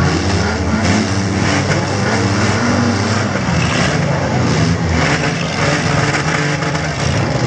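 Several six-cylinder mid-size cars running and revving hard in a demolition derby heat, with a few sharp bangs of metal hitting metal.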